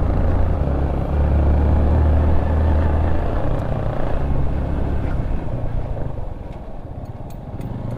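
Motorcycle engine running while riding, with wind and road rush on the microphone; it drops in level about six seconds in.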